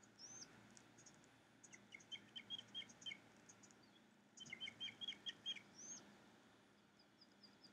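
Faint, quick bird chirps in two short runs, about two seconds and four and a half seconds in, with thin higher calls and a couple of arched whistled notes above them, over a faint steady outdoor hiss.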